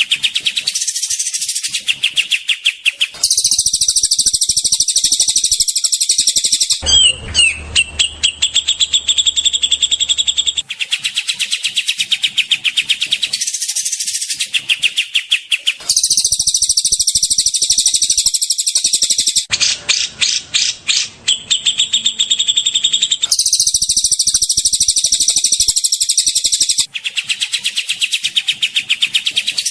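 Songbird master recording of cililin, kapas tembak and cucak jenggot songs: fast, harsh chattering trills of rapidly repeated notes. The song changes abruptly every few seconds, as spliced segments, with a sliding whistled phrase about a third of the way in and a clicking chatter about two thirds in.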